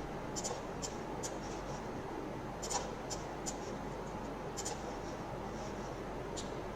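Computer mouse clicking, about nine short, sharp clicks at irregular intervals, as polygons are selected one by one in a 3D modelling program, over a steady faint background hiss.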